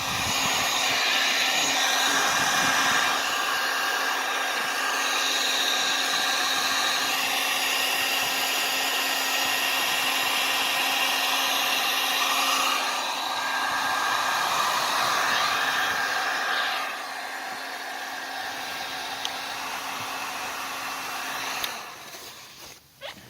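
Electric heat gun blowing steadily, a loud fan-and-air rush with a steady hum. It gets quieter about 17 seconds in, then switches off and winds down near the end.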